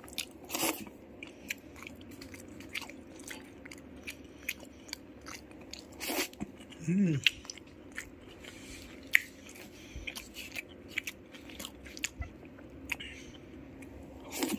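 Close-up chewing of crispy sisig eaten by hand: a string of irregular sharp crunches and wet mouth clicks. A brief voiced hum from the eater about seven seconds in.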